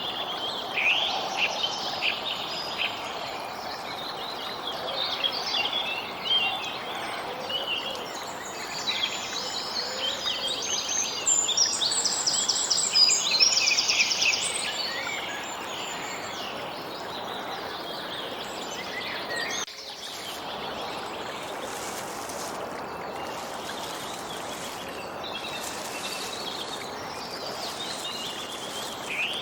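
Several songbirds chirping and trilling over a steady background hiss, busiest about halfway through. About two-thirds of the way in the sound drops out for an instant, and the birdsong is sparser afterward.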